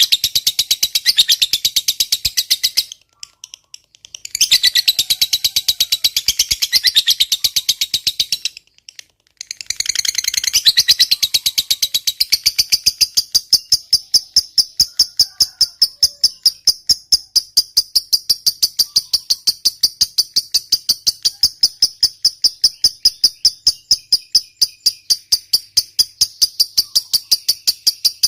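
Lovebird chattering in the long 'ngekek' trill: shrill, rapid notes repeated evenly in long runs, broken by two brief pauses in the first ten seconds. From about twelve seconds in, the notes turn thinner, higher and very regular, at about three a second.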